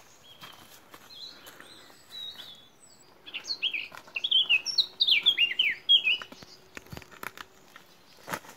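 A songbird singing a fast, jumbled run of short chirps and down-slurred whistles. It starts faintly and is loudest for about three seconds in the middle. Scattered clicks of footsteps on the dirt trail and brushing twigs come through, more of them near the end.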